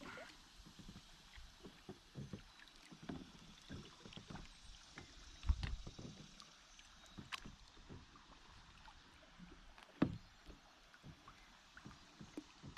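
Kayak paddling: faint paddle splashes and dripping water, with scattered light knocks, the loudest about five and a half seconds in and again at ten seconds.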